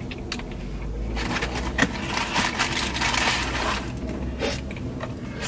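Close-up chewing of a bite of KFC fried chicken burger: irregular wet munching and crunching with small crackly clicks, busiest in the middle and tailing off near the end.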